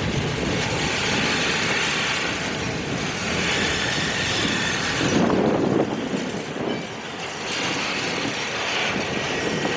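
Freight train moving in a rail yard: steady rolling noise of the locomotive and cars on the rails, swelling a little about five seconds in.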